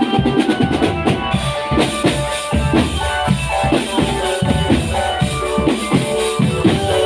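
Marching drum band playing: bass and snare drums beat out a steady rhythm under a melody from pitched band instruments.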